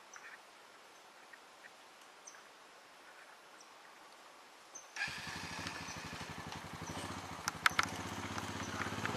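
Quiet woods with a few faint chirps, then about five seconds in a small engine starts running steadily, cutting in abruptly, with a few sharp clicks near the end.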